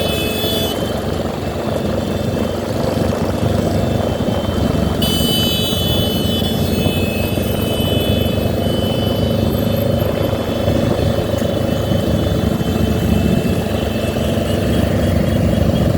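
Motorcycles riding together in a large group: a steady rumble of engines and wind noise. A steady high-pitched whine joins about five seconds in.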